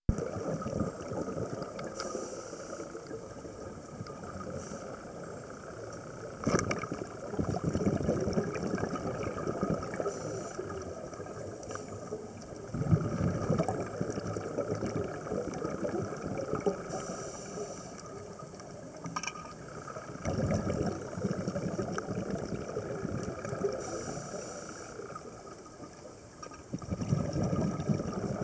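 Underwater scuba breathing through a regulator. About every seven seconds there is a short hiss of inhalation, then a low rumbling burst of exhaled bubbles, with the churn of swell around it.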